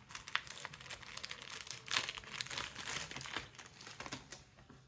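Thin plastic packaging crinkling as it is handled and unwrapped, a quick irregular run of crackles that dies away near the end.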